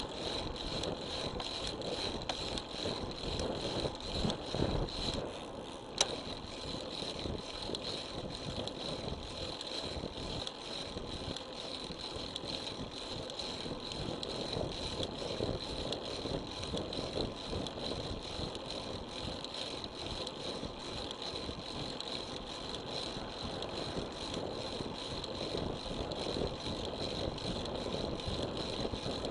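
Riding noise from a road bicycle as picked up by an action camera: a steady rush of wind and tyre noise with constant fine rattling from road vibration, and a single sharp click about six seconds in.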